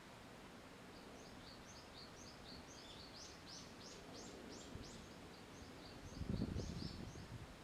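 Small songbirds chirping: a steady run of short, high, downward-sliding notes, several a second. About six seconds in, a louder low rumble lasts for about a second and a half.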